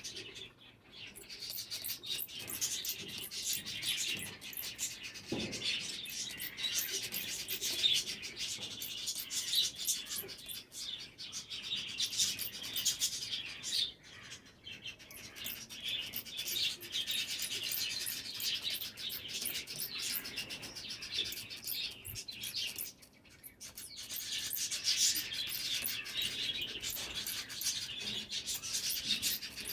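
Java sparrows chirping busily, many short high calls overlapping almost without a break, with a couple of brief lulls.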